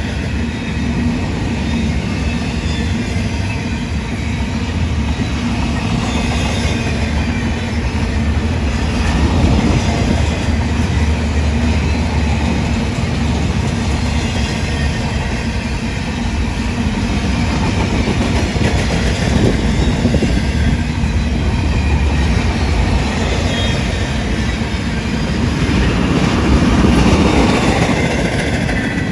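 Union Pacific freight train rolling past steadily, the noise of its cars' wheels on the rails.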